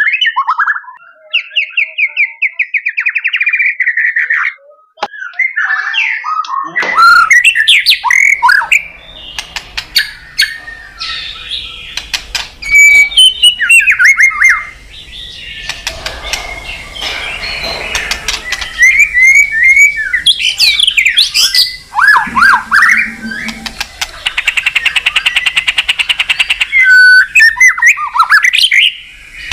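White-rumped shama (murai batu) song played from a recording: a loud, varied run of whistles, rapid trills and harsh notes. About seven seconds in the recording changes to one with a low hum and sharp clicks behind the song.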